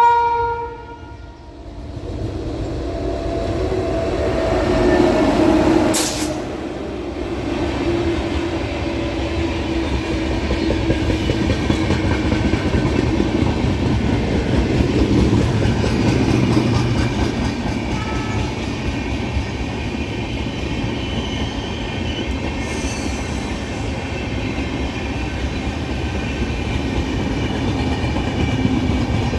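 A WAP-7 electric locomotive's horn sounds briefly and cuts off. The express train then passes, with a rising rumble that peaks with a sharp crack about six seconds in. The coaches' wheels keep up a steady loud rumble and rattle on the track after that.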